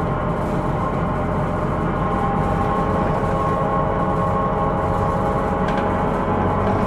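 Inside a Hino Rainbow II non-step bus under way: a steady low rumble from the engine and road, with several steady whining tones over it. The whine is the abnormal noise this bus is recorded for.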